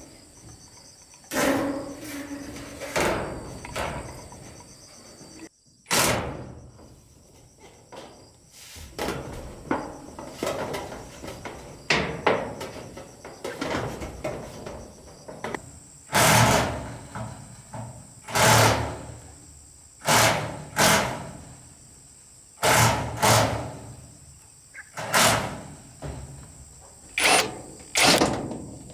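Irregular knocks and thuds of hand work on wood, a strike every second or two with short pauses, over a steady high-pitched chirring of insects.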